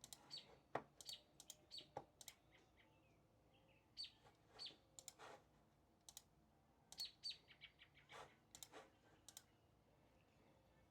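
Faint, short chirps of small birds coming through an open window, in loose clusters of quick high notes, with a few soft clicks mixed in.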